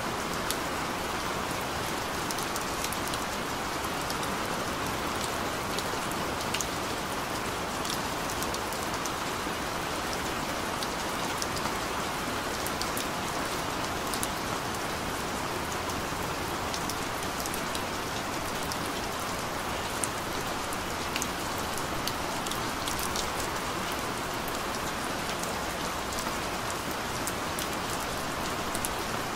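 Rain falling steadily, with scattered sharp ticks of single drops striking close by.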